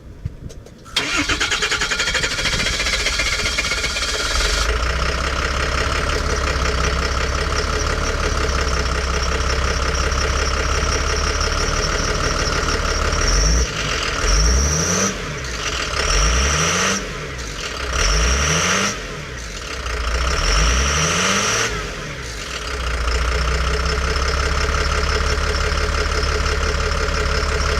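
2007 International CF500 truck engine starting about a second in and settling to a steady idle. In the middle it is revved up and down several times in quick succession, then it drops back to idle.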